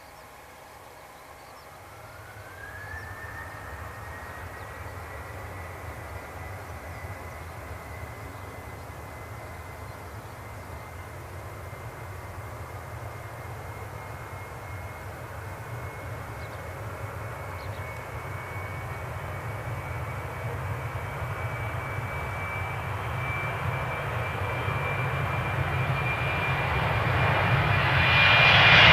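Boeing 737-800's CFM56-7B turbofan jet engines spooling up for takeoff. A whine rises in pitch about two seconds in and then holds steady over a low rumble, growing louder throughout and sharply louder near the end.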